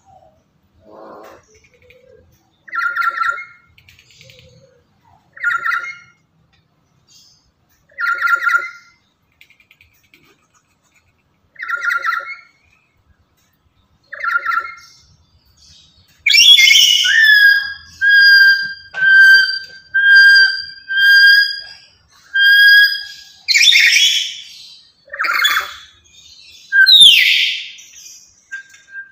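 Black-capped lory calling: short, evenly spaced calls every two to three seconds, then a loud run of whistled notes at one pitch, about one a second, broken by a few harsh screeches near the end.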